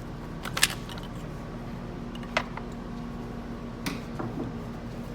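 Three sharp plastic clicks, the loudest about half a second in, the others near the middle and about four seconds in, as an electrical connector is pried off an A90 Supra's automatic transmission. A faint steady hum runs underneath.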